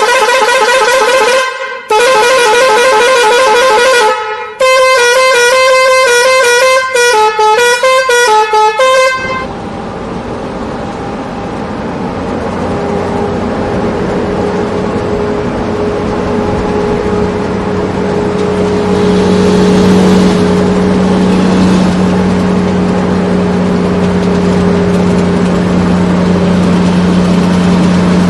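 A loud, wavering horn-like tune in three stretches, its notes changing quickly toward the end, then a steady vehicle engine running from about nine seconds in, slowly growing louder.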